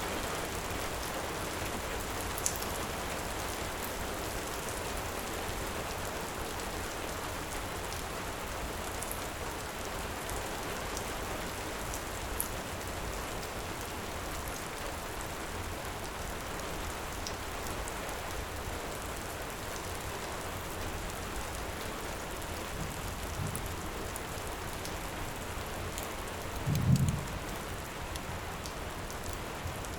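Heavy rain falling steadily, with a few sharp crackles from a wood fire. A short low thump comes near the end.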